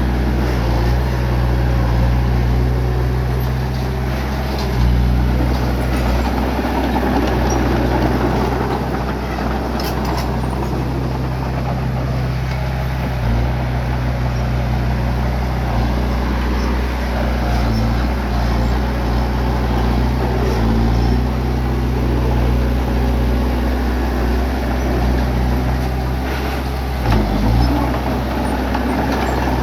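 Bulldozer's diesel engine running steadily, with a couple of brief knocks, one about ten seconds in and one near the end.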